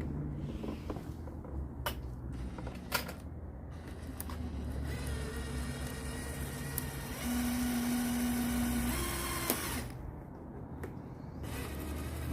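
A power drill runs steadily for about five seconds, drilling a hole, and gets louder partway through. A few sharp knocks come before it.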